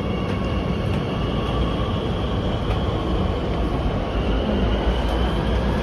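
Beijing Subway train running: a steady low rumble of wheels on track, with a faint high whine over it.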